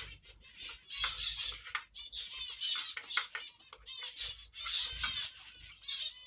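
Aviary finches chirping and singing in a continuous fast twittering chorus, with a few light knocks and scrapes mixed in.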